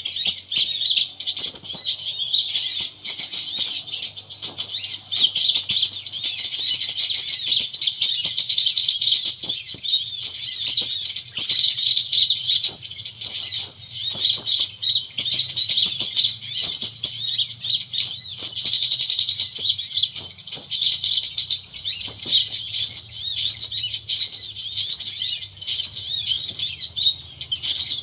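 Small birds chirping and twittering in a dense, continuous, high-pitched stream of rapid notes and trills.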